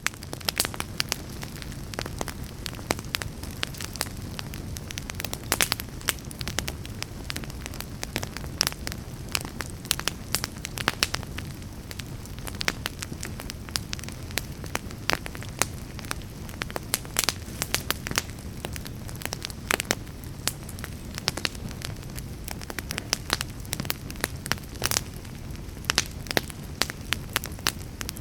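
Wood fire in a fireplace crackling, with many sharp irregular pops over a steady low noise.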